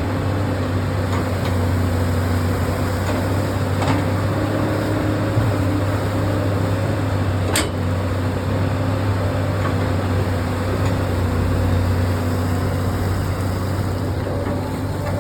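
Heavy diesel earth-moving equipment running steadily, a low engine drone with a few light metallic clicks and one sharp clank about seven and a half seconds in.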